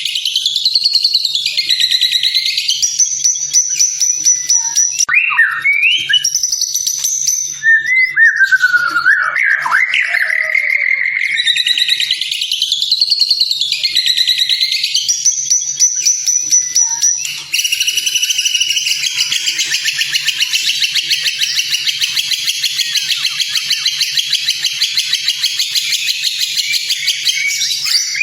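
White-rumped shama (murai batu) singing: rising and falling whistled phrases, then, a little past halfway, a dense, rapid run of chattering notes.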